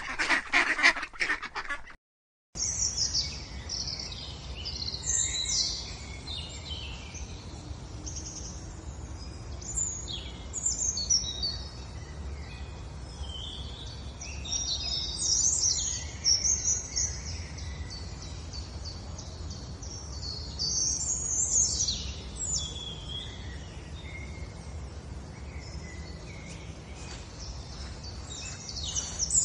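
Ducklings peeping: many short, high-pitched, often falling calls overlapping in a steady chatter over a low hum. It opens with about two seconds of louder calls from a separate clip, then a brief silence before the peeping starts.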